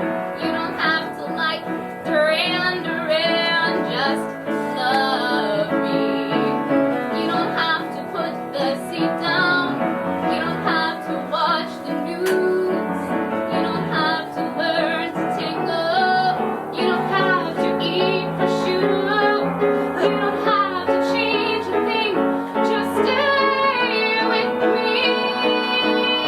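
A woman singing a musical-theatre song with vibrato on held notes, over piano accompaniment.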